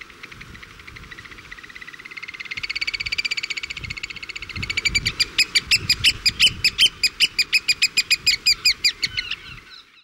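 A bird's piping call: a fast trill of high notes that, about halfway through, breaks into loud separate pips, roughly five a second, stopping just before the end.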